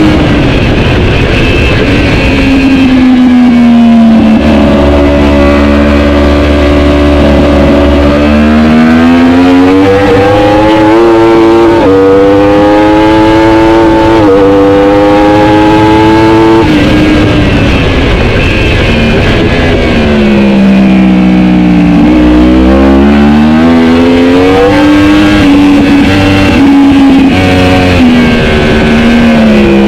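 Superbike racing motorcycle engine at full race pace: the revs climb with quick upshifts, each a sudden drop in pitch, about 12, 14 and 17 seconds in, then fall for several seconds as it brakes and downshifts, and climb hard again.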